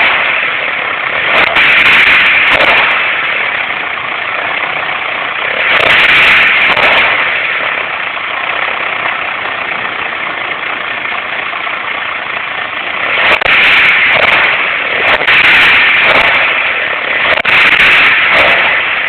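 Fiat Palio 1.6 16v four-cylinder engine idling and blipped about five times, each rev swelling for a second or so and dropping back. The strange noise comes as the revs fall after each blip, which the owner wonders may come from a pulley or the belt tensioner.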